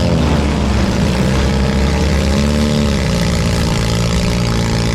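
Four-cylinder demolition derby car engines running and revving, their pitch rising and falling every second or so.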